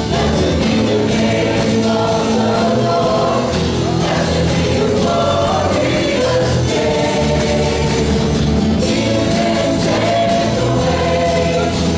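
A church worship band and singers performing a song: several voices singing together over bass and drums.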